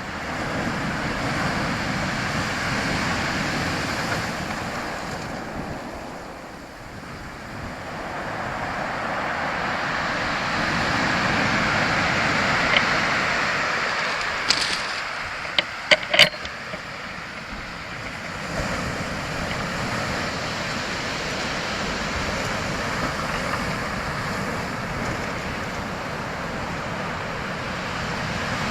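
Rushing water, a steady noisy wash that swells and eases like surf. A few brief sharp sounds stand out around the middle.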